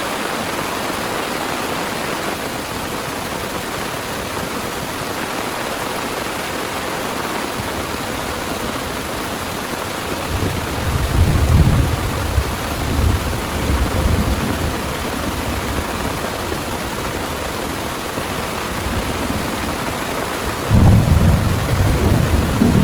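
Heavy rain falling steadily, with thunder rumbling twice: a long low rumble about halfway through and a second, sharper one starting near the end.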